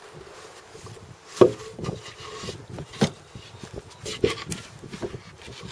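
Wooden boards being handled, knocking and rubbing against each other: a string of sharp wooden knocks, the loudest about a second and a half in, with scraping between them.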